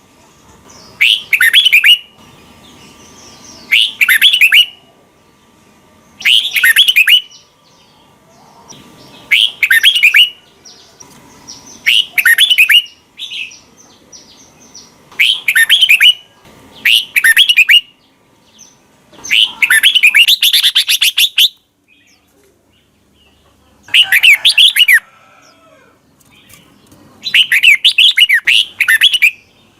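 Red-whiskered bulbul singing its short, bubbly warbled phrases, one about every two to three seconds, with one longer phrase about two-thirds of the way through.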